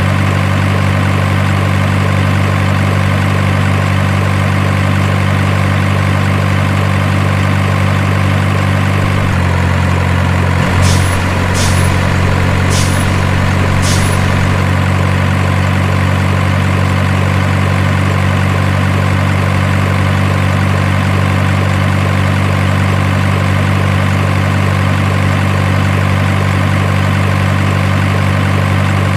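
Simulated diesel truck engine idling steadily, the kind of sound an RC truck's sound unit makes. About nine seconds in, the engine note shifts, and four short sharp hisses follow over the next three seconds.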